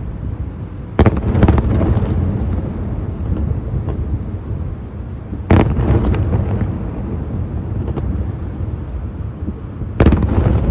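Aerial fireworks shells bursting: three sudden loud bangs about four and a half seconds apart, each followed by crackling and a low rumbling tail that fades into steady rumble.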